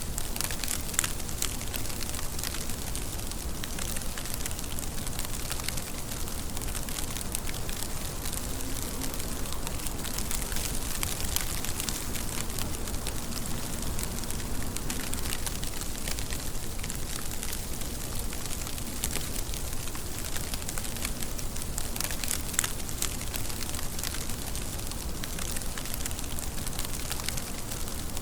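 Steady rain: an even hiss of falling water, with many small, sharp clicks of single drops striking a surface.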